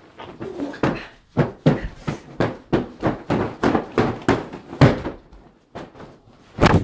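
A quick run of dull thumps and knocks, about three a second, with a few louder ones; the sound cuts out abruptly near the end.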